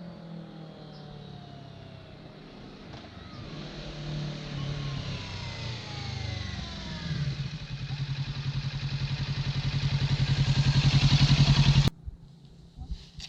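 Kawasaki Ninja 650 parallel-twin engine and exhaust running, growing steadily louder over several seconds with an even pulsing beat, then cutting off abruptly near the end.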